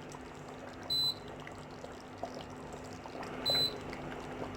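Two short, high electronic beeps from a kitchen appliance, about two and a half seconds apart, over a faint steady hum.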